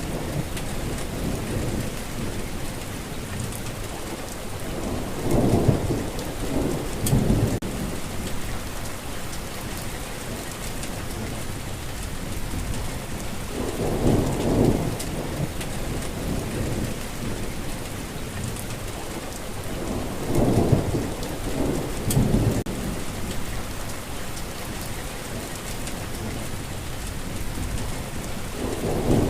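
Steady rain hissing, with low rumbles of thunder swelling up and fading several times.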